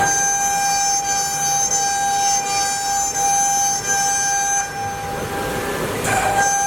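The water-cooled spindle of a CNC wood router running with a steady high-pitched whine while it cuts MDF, with a brief noisier rush about six seconds in.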